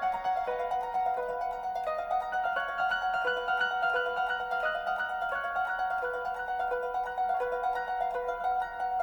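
Background music: a steady run of quick plucked-string notes, several a second, in a light melodic pattern.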